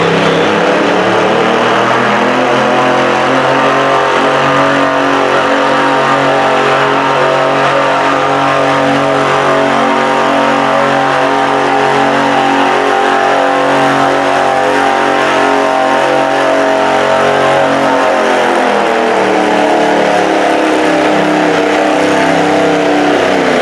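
Stock altered garden tractor engine pulling hard under load on a weight sled, running loud and at high revs. Its pitch sags over the first few seconds, holds steady for a long stretch, drops lower again near the end, then picks up just before the end.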